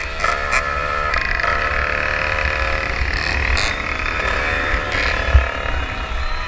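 Onboard sound of a 115cc racing motorcycle engine revving up and down through the corners, with wind rumbling on the microphone. A single thump about five seconds in.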